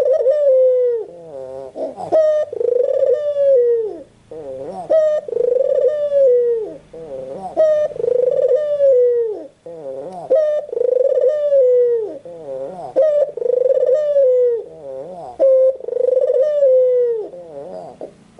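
White Barbary dove (puter putih) cooing over and over. Each phrase is a wavering, rolling lead-in and then a long falling coo, repeated about every two and a half seconds, around seven times.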